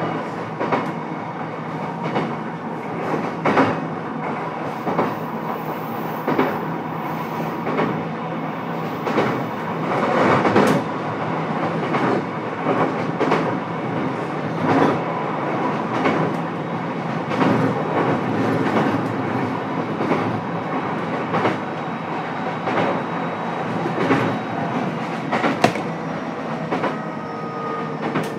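Running sound inside a JR East E129 series electric train's motor car while under way: a steady rumble of wheels on rail, broken by irregular clicks as the wheels pass over rail joints. A faint whine sets in near the end.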